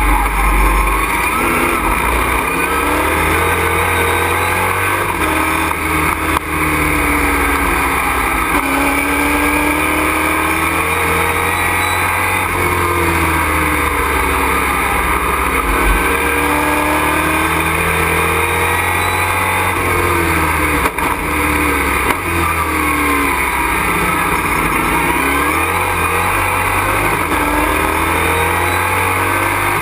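Race truck's engine at racing speed, heard from inside the cockpit, its pitch rising and falling again and again as it accelerates and slows through corners.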